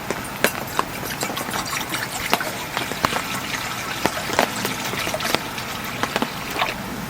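Heavy rain falling steadily on a tent, with irregular sharp taps and knocks over it.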